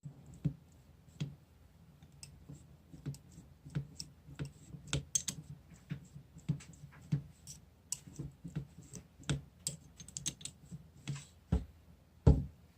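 Irregular light clicks and taps of small parts being handled and fitted, about one or two a second, with two louder knocks near the end.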